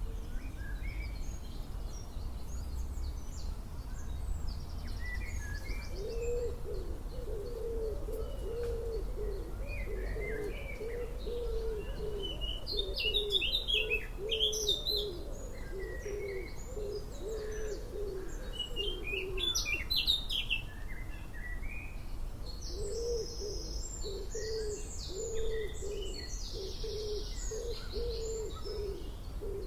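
Birdsong: a low cooing call repeated over and over in an even series, breaking off for a few seconds about two-thirds of the way through and then resuming. Small birds chirp and twitter high above it, busiest around the middle, over a low steady rumble.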